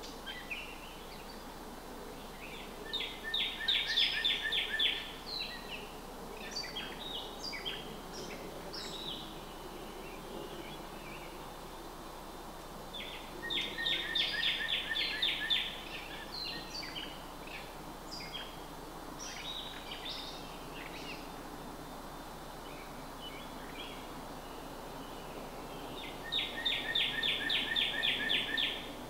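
Songbird birdsong: one bird repeats a rapid trill lasting about two seconds three times, roughly every twelve seconds, with scattered short chirps from other birds in between, over steady background noise.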